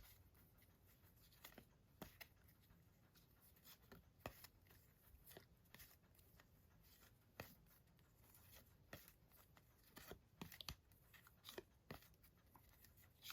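Near silence with faint, scattered light clicks and taps of cards and packaging being handled.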